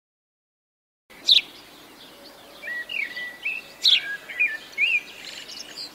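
Pet cockatiel calling: two loud, sharp, downward-sweeping calls with a string of shorter chirps between and after them, starting about a second in.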